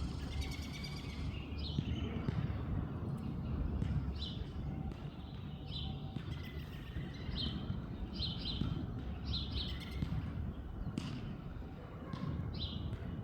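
A songbird giving about a dozen short, high chirps, some in quick pairs, spread irregularly, over a steady low background rumble.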